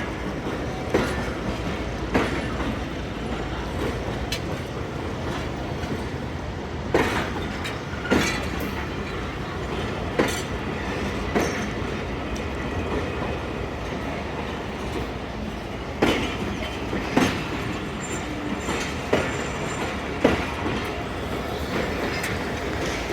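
Passenger train coaches rolling slowly over rail joints: a steady low rumble broken by sharp wheel clacks, mostly in pairs about a second apart as each bogie's wheels cross a joint.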